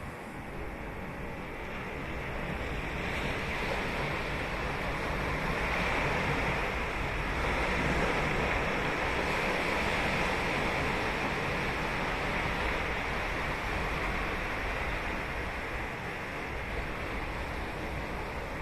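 Ocean surf: a wave breaking and washing up the beach, its rushing hiss building over the first few seconds, at its fullest around the middle, then slowly easing.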